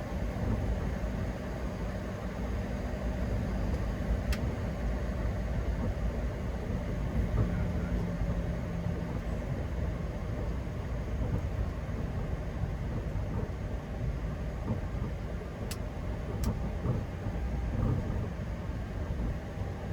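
Steady low rumble of a Boeing 737-800 heard inside the cockpit, from its engines and the airflow and rolling around the aircraft. A few faint clicks come through, about four seconds in and twice near the end.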